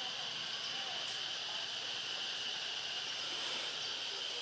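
A steady, high-pitched insect drone over outdoor background noise, unchanging throughout.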